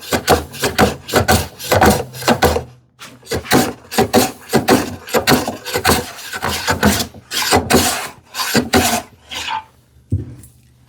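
Low-angle hand plane taking short, rapid scraping strokes across the end grain of a wooden drawer side, with a brief pause partway through and stopping near the end.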